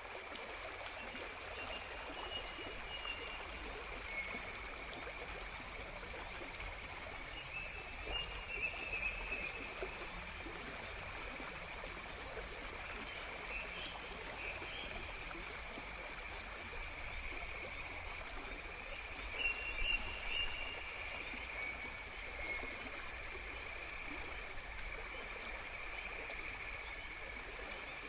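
Natural ambience of a stream running steadily, with high insect buzzing and scattered short chirps. A rapid trill of about four pulses a second sounds around 6 seconds in and again briefly around 19 seconds.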